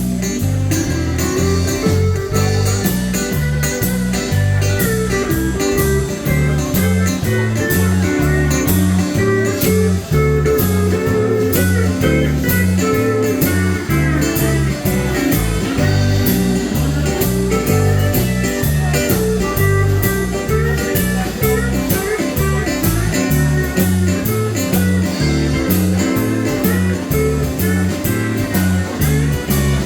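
Country band playing an instrumental break: a lead guitar over a steady bass line and drum beat.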